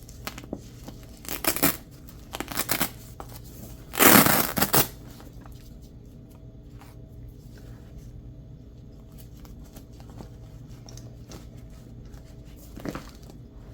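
A hook-and-loop (Velcro) patch being peeled off a backpack's loop panel: two short rips, then a longer, louder rip about four seconds in.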